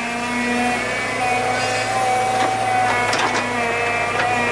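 A motor running steadily at an even pitch, with a few knocks in the second half.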